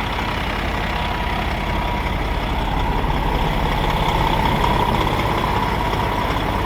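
Truck engine running steadily at idle: a continuous low rumble with a thin, steady high tone over it.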